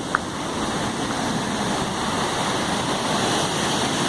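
Steady rushing of river rapids and falls pouring through a narrow rock gorge, growing slightly louder towards the end.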